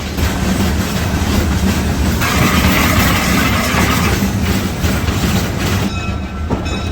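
Replica Shay steam locomotive running on narrow-gauge track, a steady low chugging rumble, with a hiss lasting about two seconds starting a couple of seconds in.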